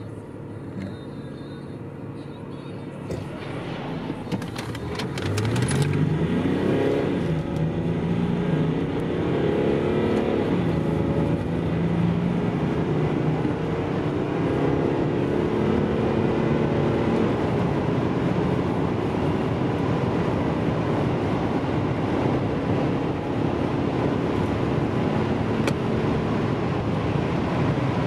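Land Rover Discovery 3.0 V6 turbo diesel accelerating at full throttle. The engine note stays low for about five seconds, then climbs in pitch and drops back at each upshift, several times over, while road and wind noise builds.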